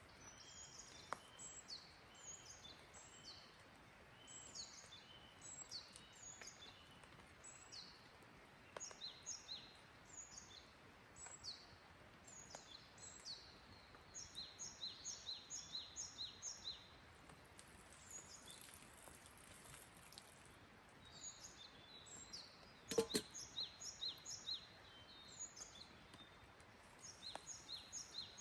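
Small songbirds calling repeatedly: short, high, falling chirps and runs of quick repeated notes, about four a second at times. One sharp knock comes about three quarters of the way through.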